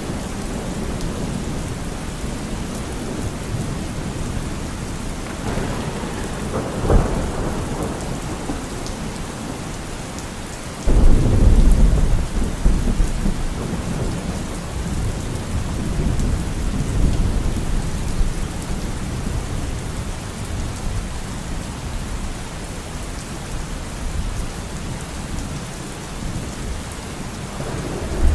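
Steady rain falling with thunder rumbling through it: a faint roll about six seconds in, then a sudden, much louder peal about eleven seconds in that rolls on for several seconds, with further rumbles after it and another starting near the end.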